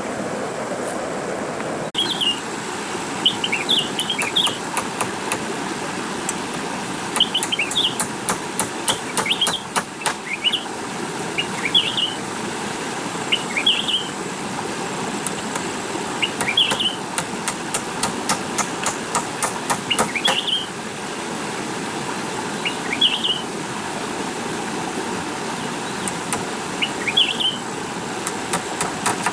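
A bird calling over and over, a short chirp phrase about every two seconds, over a steady background hiss. Runs of sharp clicks come and go.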